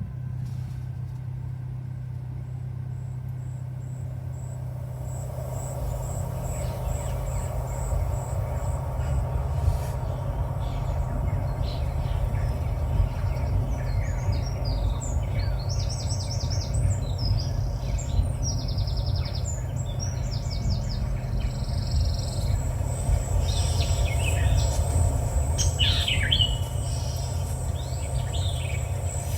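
Recorded birdsong and forest ambience from the car infotainment's 'sounds of nature' feature, playing through the cabin speakers. Scattered chirps come thicker in the second half, over a steady low hum.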